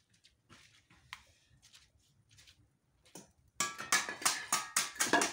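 Faint taps and scrapes, then a fast run of hard, ringing blows from a metal tool striking brick, about three to four a second, starting near the end.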